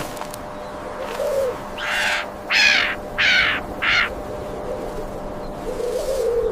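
Four harsh bird calls in quick succession, each about half a second long.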